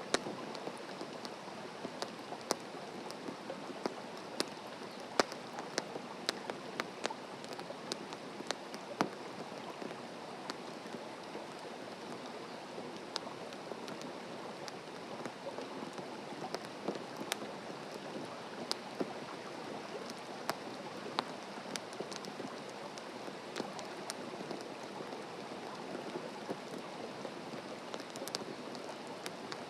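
Wood fire crackling: a steady soft hiss with irregular sharp pops and snaps, thickest in the first third.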